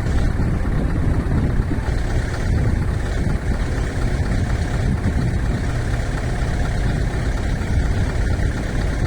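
Heavy truck's diesel engine running steadily at a constant low pitch.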